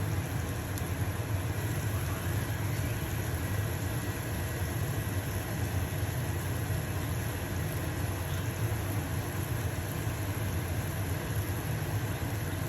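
Stove-top range hood fan running with a steady low hum, with the faint sizzle of a pancake frying in a pan beneath it.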